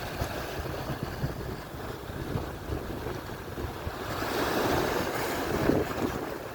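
Atlantic surf: waves breaking and washing up the shore, with wind buffeting the microphone. A wave swells up louder about four seconds in.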